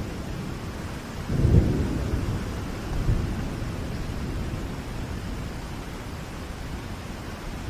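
Thunderstorm: steady rain with low thunder rumbling under it. A louder roll of thunder swells about a second and a half in, and a smaller one comes about three seconds in.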